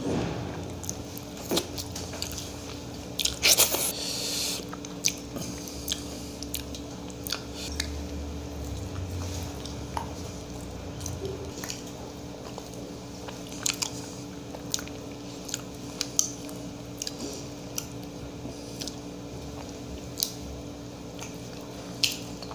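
A man chewing soft food close to the microphone, with wet mouth sounds and scattered sharp lip smacks. A louder noisy burst comes about three to four seconds in.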